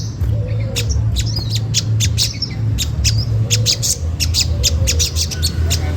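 Olive-backed sunbird giving sharp 'cret cret' chip calls, several a second in irregular runs, over a steady low hum.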